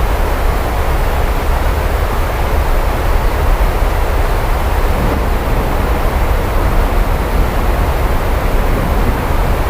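Steady heavy rain with a constant deep low rumble beneath it, even and unbroken throughout.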